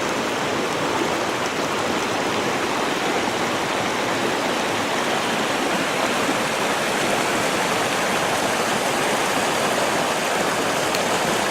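Flooded creek rushing steadily, its water up high after heavy rain.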